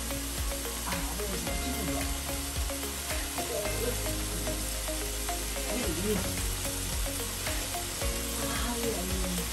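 Diced chicken breast, tomato and onion frying in oil in a stainless steel pan, a steady sizzle.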